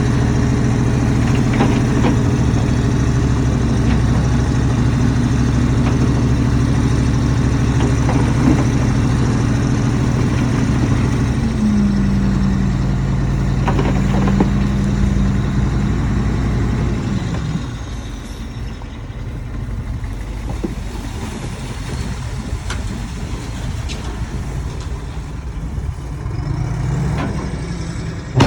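Heavy diesel engine of earthmoving machinery running loud and steady, its pitch stepping up about twelve seconds in. Around seventeen seconds in the engine note falls away to a quieter, rougher rumble, which swells briefly near the end.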